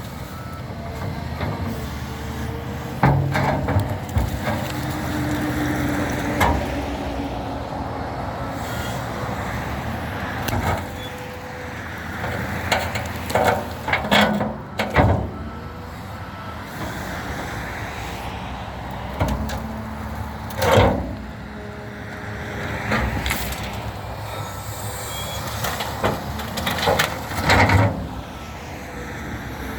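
A tractor shovel loader's engine runs steadily while cut tree trunks are grabbed and dropped, giving repeated sharp knocks and clunks of wood throughout.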